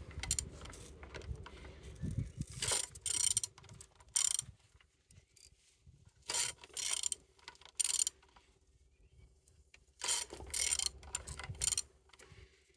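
A ratchet wrench clicking as a used car engine's crankshaft is turned over by hand, in three bouts of clicks with short pauses between them. The engine turns freely.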